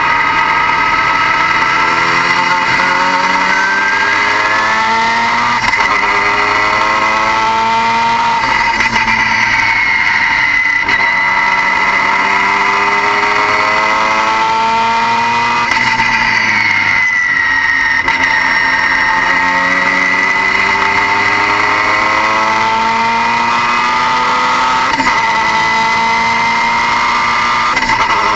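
Turbocharged car engine pulling through repeated rising revs, each climb in pitch dropping back and starting again, with a steady high whine over it.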